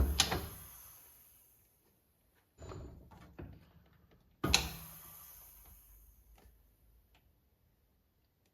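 Two sharp knocks, one at the start and one about four and a half seconds in, each ringing away over a second or two, with a softer knock in between.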